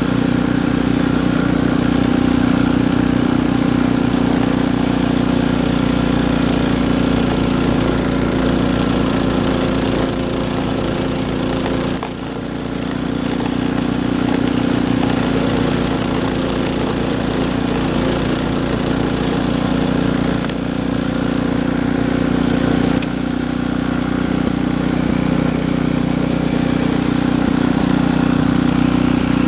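Snowblower's small engine running steadily, with a brief drop in level a little before halfway and a slight change in tone about three-quarters of the way through.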